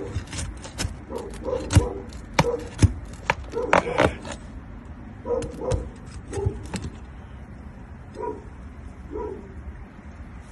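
A dog barking repeatedly in short barks, with scattered sharp knocks and clicks between them.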